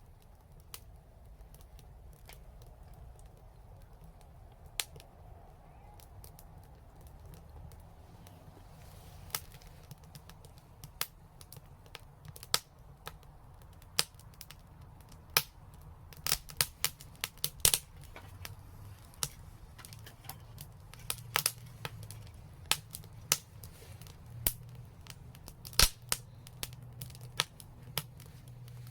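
Wood fire crackling: sharp pops and snaps, sparse at first and coming faster from about a third of the way in, over a low steady rumble.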